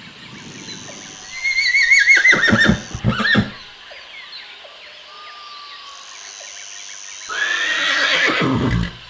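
Pony whinnying twice. A long, quavering whinny falls in pitch about a second and a half in, and a second whinny comes near the end.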